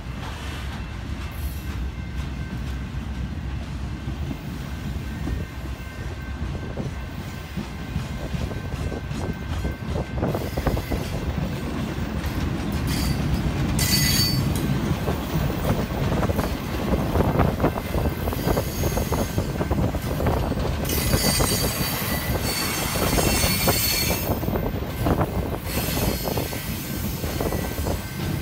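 Freight train rolling past, its wheels rumbling and clattering over the rail joints. High-pitched wheel squeal rises about halfway through and again for a few seconds near the end.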